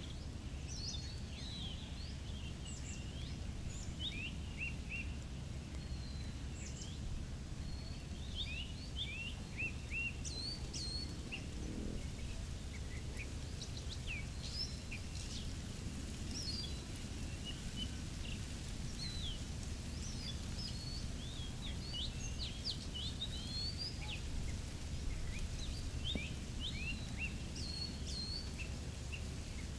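Several birds chirping and whistling in many short, quick calls, over a steady low rumble.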